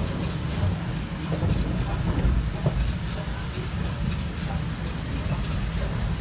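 Steam-hauled passenger train on the move, heard from a carriage window: a steady low rumble of wheels on the track with scattered clicks from the rails, the train headed by a Stanier Black 5 steam locomotive.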